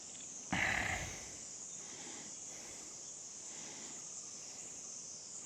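Steady high-pitched chorus of insects, with a brief loud noise about half a second in.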